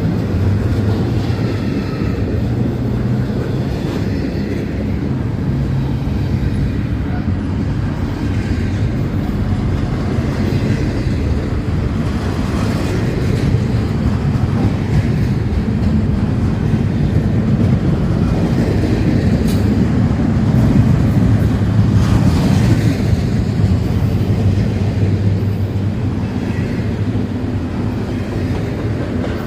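Norfolk Southern freight train rolling past, a steady low rumble of wheels and cars on the rails with a few faint clicks.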